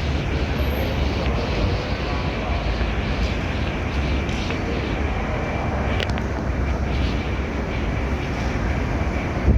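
Wall-mounted mesh-guard fans (Windy and Wington) running together: a steady rush of air with a deep low rumble.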